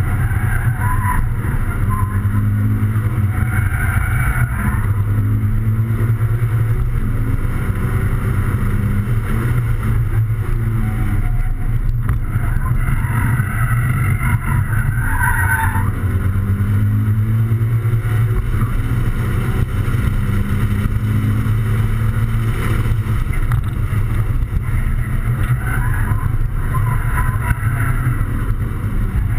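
Toyota 86's 2.0-litre flat-four boxer engine driven hard on track laps, heard inside the cabin. The revs rise and fall repeatedly.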